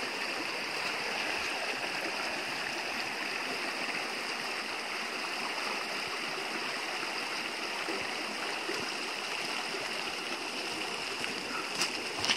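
Steady rush of a stream's running water, with a brief click near the end.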